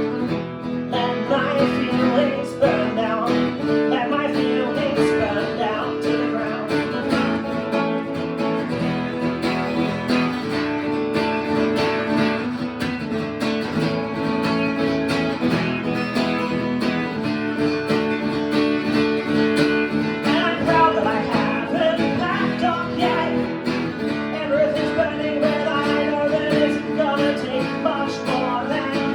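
A band playing live, led by guitar, in an instrumental passage of a song.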